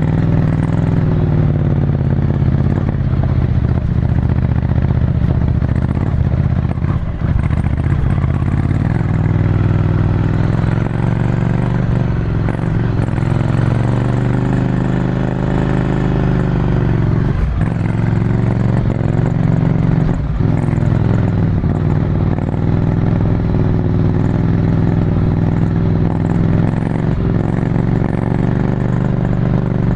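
Ducati Scrambler Desert Sled's air-cooled 803 cc L-twin running through a full Termignoni exhaust, heard from onboard while riding, its note rising and falling with the throttle. The sound drops briefly about seven seconds in and twice more past the middle, as the throttle is closed or a gear is changed.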